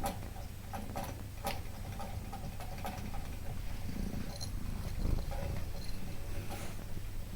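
A cat purring as a steady low rumble, with scattered small clicks and taps over it.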